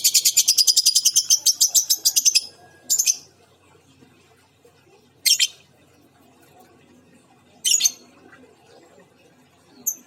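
Female lovebird calling: a rapid, loud chatter of high chirps for the first two and a half seconds, then single sharp calls about three, five, eight and ten seconds in.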